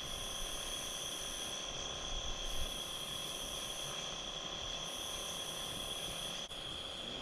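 Night insect chorus, crickets trilling steadily, with a higher buzz that swells and breaks off about every second and a half.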